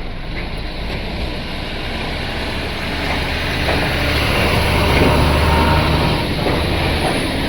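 Motor vehicle running with engine rumble and road noise, growing louder toward about five seconds in and then easing slightly.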